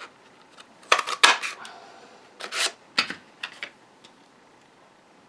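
Paper craft punch clacking as it is pressed through cardstock, twice in quick sharp clusters, followed by a few lighter ticks of the punch and paper being handled.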